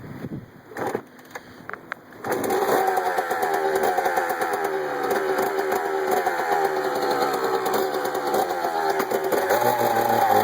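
2001 Suzuki RM125 two-stroke single-cylinder dirt bike engine catching suddenly about two seconds in, after a few faint knocks, then running steadily with a slightly wavering pitch.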